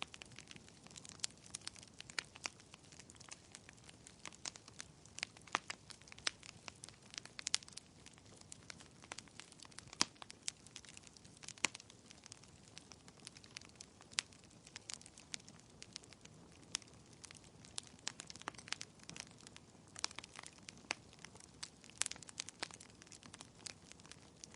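Wood fire in a fireplace crackling: a steady scatter of irregular sharp pops and snaps, some louder than others, over a soft low hiss.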